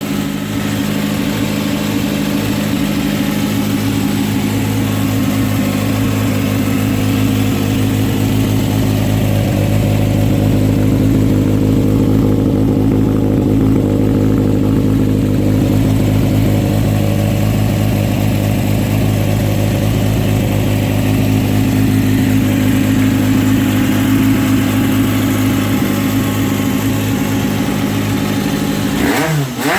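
Honda CBX400F's air-cooled inline-four engine idling steadily through a DEEPFIELD Brass Magic steel aftermarket exhaust, then blipped in quick rising and falling revs near the end.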